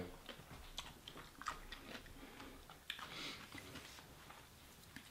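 Faint chewing and mouth sounds of people eating, with scattered small clicks of food and utensils.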